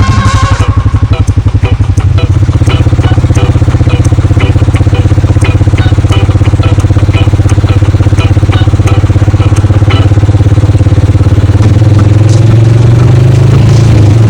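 A vehicle engine running loud and close with a rapid, steady pulse, rising a little in pitch about twelve seconds in as the revs come up.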